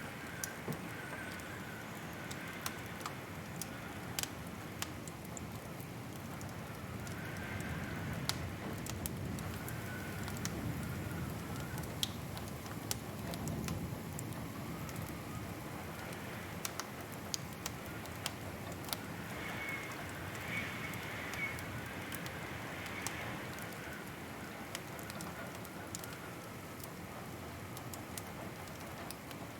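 Wood fire burning in a fireplace: frequent irregular crackles and pops over a steady low rush of the flames.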